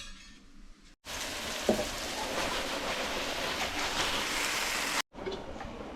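Chicken of the woods and oyster mushrooms frying in olive oil in a pan: a steady sizzle that cuts in about a second in and cuts off abruptly near the end.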